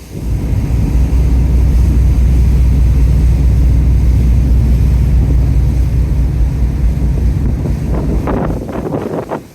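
Strong wind buffeting the microphone, a heavy low rumble, with a few sharper gusts near the end before it suddenly drops away.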